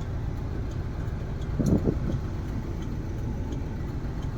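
Tata Sumo Gold diesel engine idling steadily, heard from inside the cabin as a low rumble. A brief low thump comes a little under two seconds in.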